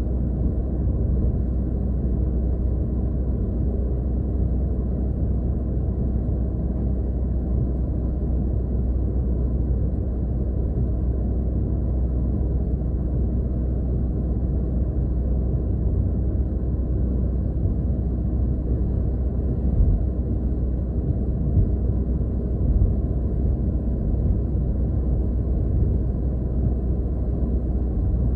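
Steady low rumble of a car's tyres and engine, heard inside the cabin while driving, with a couple of small bumps about two-thirds of the way through.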